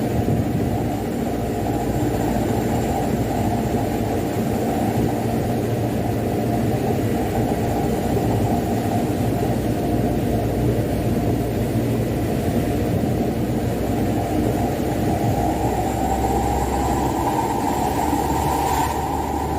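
Mitsubishi Canter dump truck's diesel engine running steadily while driving, with road and cab noise; the engine note rises a little over the last few seconds.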